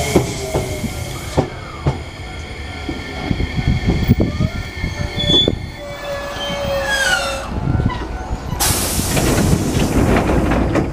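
Enshū Railway electric train running slowly along a station platform: wheels rumble and clack over the rails while the brakes or wheels squeal in high tones that slide downward about five to seven seconds in. From about nine seconds a loud burst of hissing air sets in, typical of air brakes venting.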